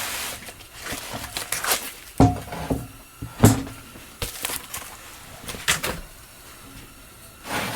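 Scattered knocks, clunks and rustles of tools and a steel plate being handled on a workbench, about half a dozen separate hits with the loudest clunk about halfway through.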